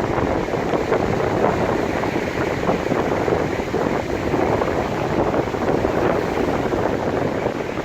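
Wind buffeting the microphone over the steady wash of Baltic Sea surf on a sandy shore.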